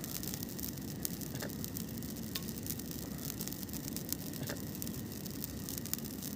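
Campfire cooking: scattered sharp crackles and pops over a steady hiss.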